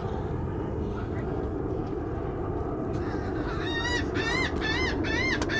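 A bird calling in a series of short, harsh, arched notes, about two a second, beginning a little past halfway, over a steady low rush of wind and water.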